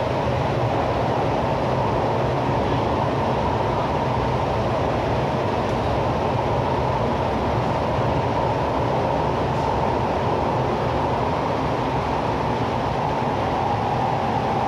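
East Rail line R-train electric multiple unit running along the line, a steady rumble of wheels on rail and running noise.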